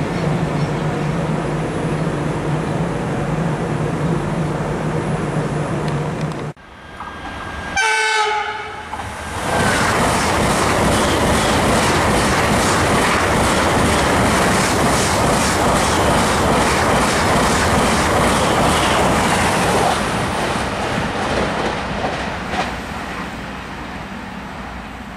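A freight train rolls away with a steady low hum. After an abrupt break, a train horn gives a short blast. Then an SBB electric passenger train passes at speed with a loud rush and a regular clicking of wheels over rail joints, about two a second, fading away near the end.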